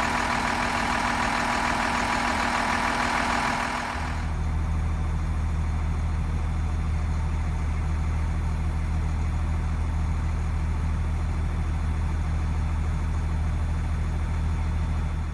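Vehicle engine idling steadily. About four seconds in the sound changes abruptly to a deeper, steady engine hum.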